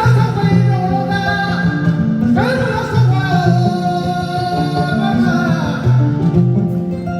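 West African griot song: a voice singing over a kora's plucked strings, each sung phrase sweeping up in pitch as it begins, about every two and a half seconds.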